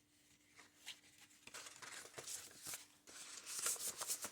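Paper pages of a handmade junk journal being handled and turned: faint rustling with light ticks, busier near the end.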